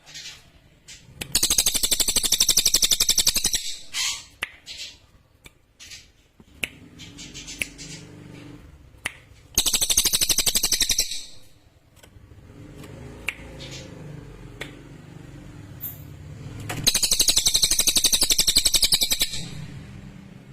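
Cililin bird singing: three rapid, high trills of about two seconds each, several seconds apart.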